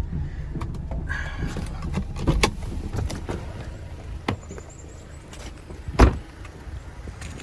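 Car engine running at idle with scattered clicks and rattles, then a car door thudding shut about six seconds in; the engine rumble fades right after.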